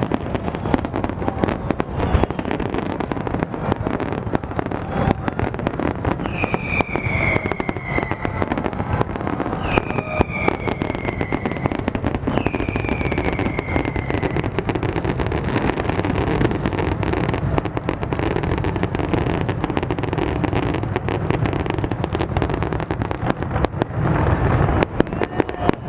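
A fireworks display: a continuous, irregular barrage of bangs and crackles. Three falling whistles rise above it, about a third of the way through.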